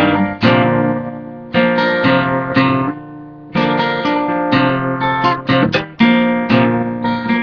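Acoustic guitar strumming chords as an instrumental interlude between sung lines of a folk song.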